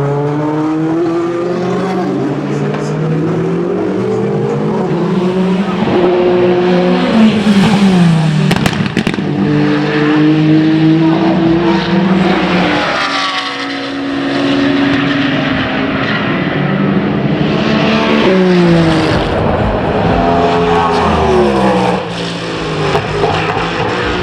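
Endurance prototype and GT race cars passing at speed, their engine notes climbing and dropping through gear changes. The loudest pass comes about seven to nine seconds in.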